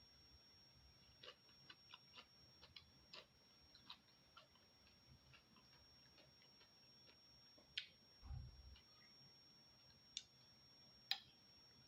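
Quiet eating: light clicks and taps of a spoon against a bowl of bakso, most of them in the first few seconds, with a dull low thump a little past the middle and two sharper clinks near the end.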